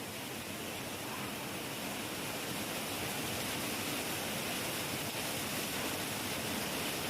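Heavy rain falling as a steady, dense hiss, with no thunder, swelling slightly louder about two seconds in.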